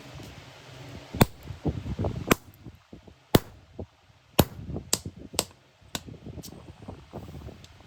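Hammer striking metal, about eight sharp blows spaced roughly a second apart and coming a little faster in the middle, over a low rumble.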